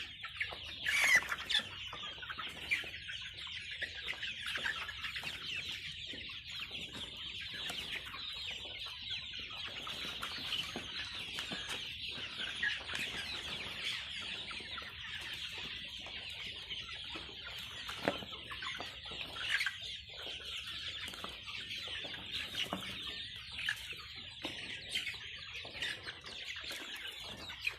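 A flock of Kadaknath chickens clucking and calling without a break, many birds at once. There is a louder, sharp sound about a second in.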